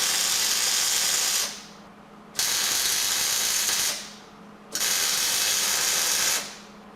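Welding arc crackling in three bursts of about a second and a half each, with short pauses between, as Panhard bar brackets are tacked in place.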